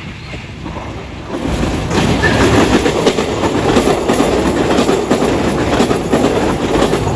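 An eight-car KRDE diesel-electric multiple unit passing close by. Its rumble swells about a second and a half in and stays loud, with a rapid clatter of wheels on the rails as the cars go by.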